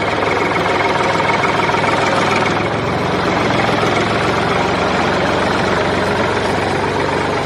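A motor running steadily, with a constant whine on top, which fits the DIY mini tractor's motor.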